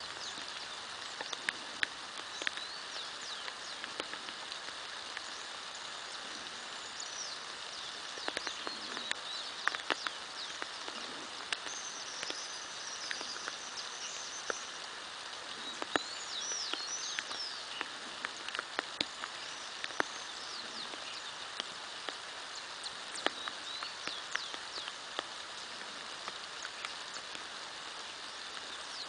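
Steady rain, with single drops tapping sharply close by. Birds call now and then over it in high chirps and short trills.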